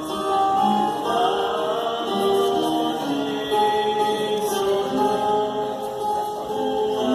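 Music with several voices singing long, held notes in a choir-like chant.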